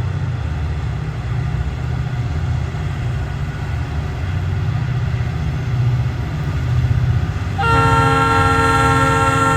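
Diesel freight locomotive rumbling as the train approaches. About three-quarters of the way through, its air horn sounds a steady multi-note chord that holds to the end.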